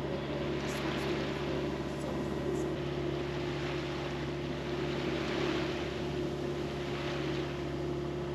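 Sailboat's engine running steadily under way, with water rushing past the hull in swells and wind noise.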